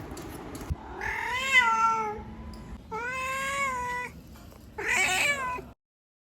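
A domestic cat meowing three times. Each meow is a drawn-out call of about a second that rises and then falls in pitch.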